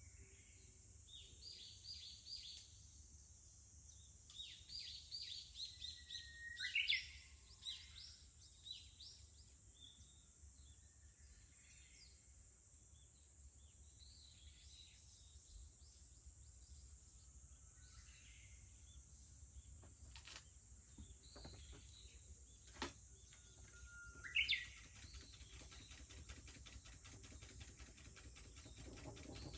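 Japanese bush warbler (uguisu) singing twice: a held whistle that sweeps up into a quick flourish, the loudest sound, with other small birds chirping. A steady high-pitched drone of cicadas runs underneath, and two sharp cracks come about two-thirds of the way through.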